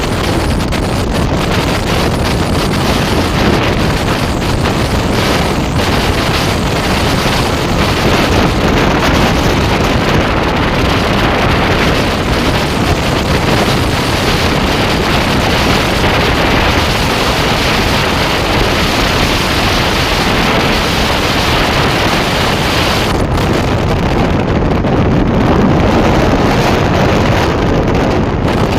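Passenger train running steadily at speed, a continuous loud rush of wheel and track noise mixed with wind buffeting the microphone.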